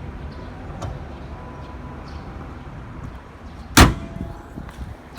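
A car's engine idling steadily with the air conditioning running. A single sharp knock sounds a little under four seconds in.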